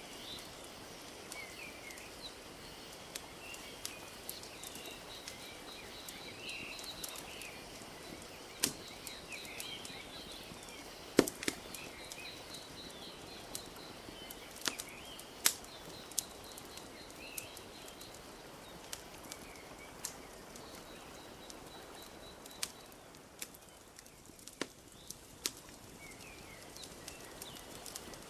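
Wood fire crackling with scattered sharp pops, the loudest about eleven seconds in, over a steady wash of lapping lake water. Small birds chirp throughout, and a fast high trill runs until a few seconds before the end.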